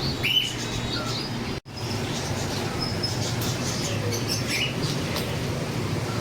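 Scattered short chirps of caged birds over a steady background hum and murmur, with a brief dropout about one and a half seconds in.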